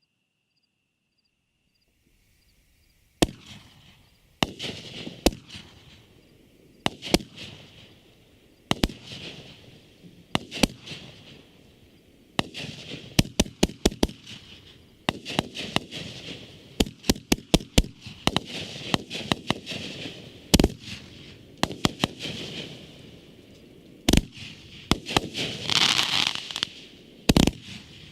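A 500-gram consumer firework cake, Cutting Edge Fireworks' "Warning Avalanche Ahead", firing. Sharp shots and bursts with crackling tails start about three seconds in, some single and some in quick volleys, with a loud crackling swell near the end.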